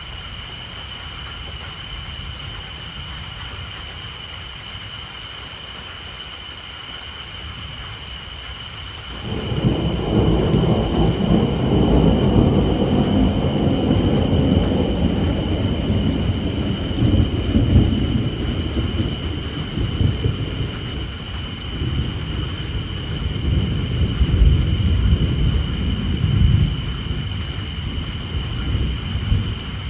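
Rain on a tin roof, with a steady high chorus of tree frogs. About nine seconds in, thunder breaks in suddenly and rolls on in deep waves that swell and ease.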